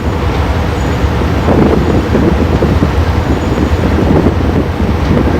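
A steady, loud low engine rumble with a rough, fluttering noise over it, like a large vehicle or boat engine running with wind on the microphone.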